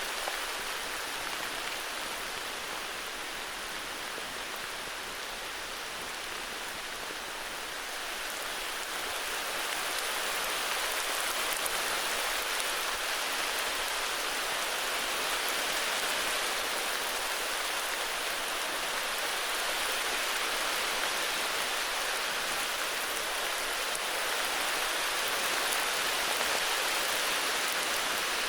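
Steady heavy rain falling on foliage and the ground, an even hiss that swells a little about a third of the way in.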